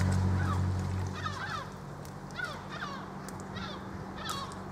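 Birds calling, a series of short calls about once a second, over a low engine hum that fades away about a second in.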